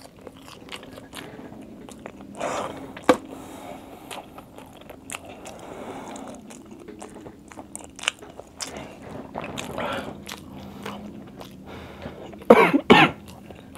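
Close-miked chewing of fast food: soft wet mouth clicks and smacks at an uneven pace, with a few louder bites. A brief louder mouth or throat sound comes near the end.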